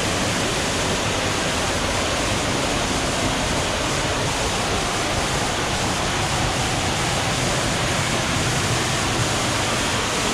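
Waterfall crashing close by, a loud, steady rush of falling water with no change.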